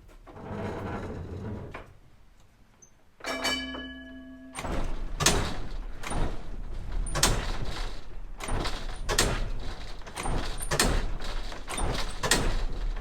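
Light rail vehicle moving into the carhouse: a rumble, then a short single-pitched tone, then a long run of sharp clacks and knocks about every half second to a second as it rolls over the yard trackwork.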